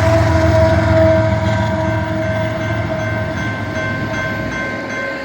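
BNSF freight train passing close by: a heavy low rumble that fades about four seconds in, with steady ringing tones running above it.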